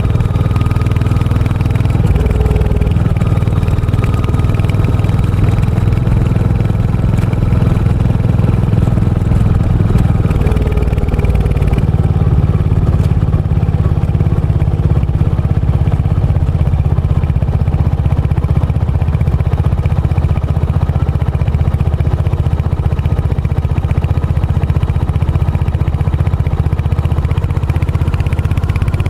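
Royal Enfield Hunter 350's single-cylinder engine and exhaust running steadily while riding, with the note changing about two seconds in and again around twelve seconds in.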